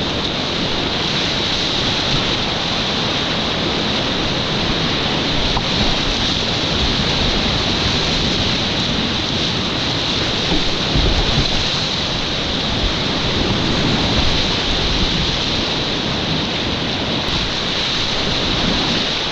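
Steady rush of whitewater rapids on a mountain river, with a few louder surges about eleven seconds in.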